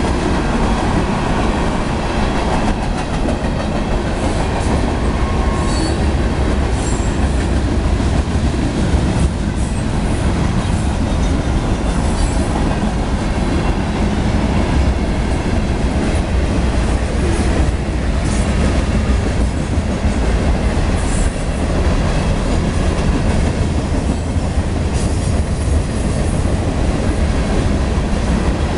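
Freight cars of a long mixed freight train rolling steadily past: a loud, continuous rumble of steel wheels on rail, with brief high wheel squeals now and then.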